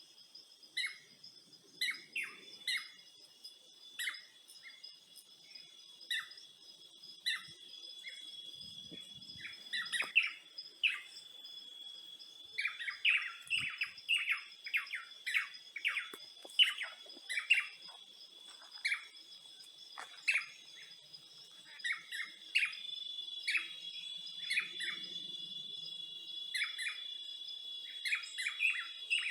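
Small birds chirping in many short, quick calls, busiest in the middle stretch, over a steady high-pitched insect drone.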